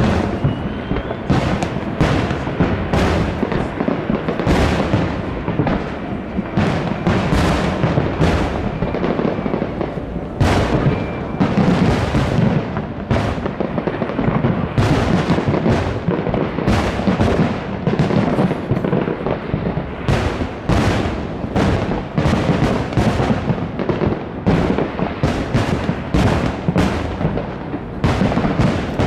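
Aerial fireworks bursting in a dense, continuous barrage: many sharp bangs a second over a steady rumble, with no pause.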